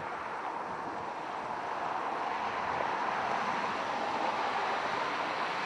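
Steady highway traffic noise, swelling a little in the middle as a vehicle passes.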